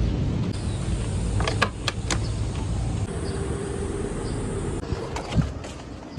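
Mercedes-AMG G63's twin-turbo V8 running with a low, steady rumble that gradually grows quieter. A few sharp clicks come about one and a half to two seconds in, and one more near the end.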